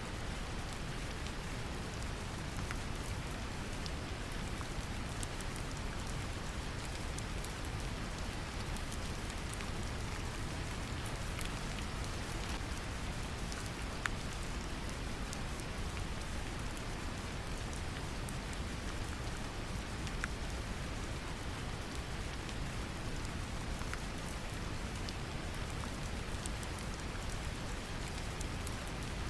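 Steady brown noise, heaviest in the deep low end, layered with gentle rain and scattered faint drop ticks.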